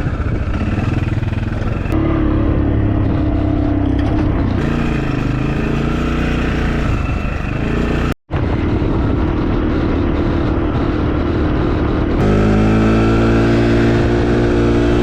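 Quad bike engine running while being ridden, its pitch shifting with the throttle. There is a short break about eight seconds in, and about twelve seconds in the engine revs up higher and holds there.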